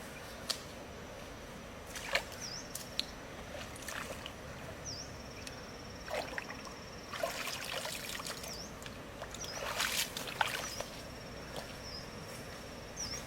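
Scattered light clicks, knocks and rustles of hands working with material, busiest in the middle, over a steady high-pitched insect trill that dips briefly now and then.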